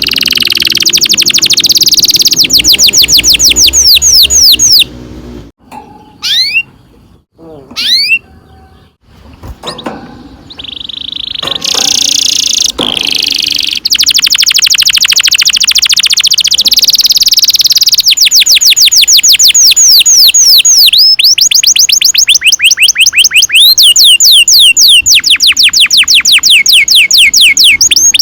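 Canary singing long rolling trills: fast runs of repeated downward-sweeping notes. A few seconds in, the song breaks off into a lull with only a few single chirps, then the long trills resume and carry on.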